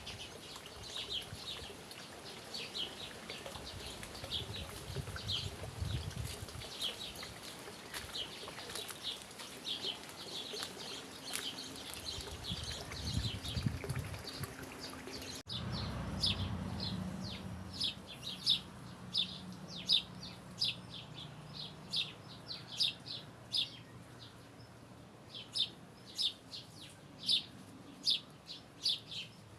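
Small birds chirping: short, high, thin chirps repeated again and again. About halfway through there is an abrupt cut to a new take, where the chirps come sharper and louder, roughly a couple a second, over a faint low hum.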